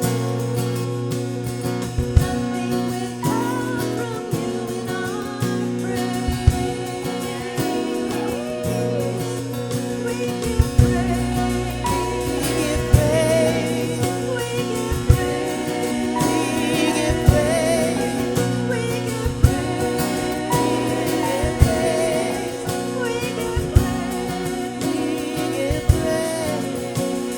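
Worship music: a singer with vibrato over sustained instrumental chords, with low drum hits every couple of seconds.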